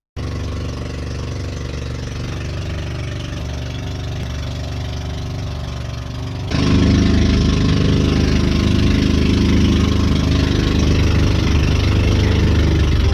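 Motor engine running steadily, then louder and fuller from about six and a half seconds in as it is throttled up.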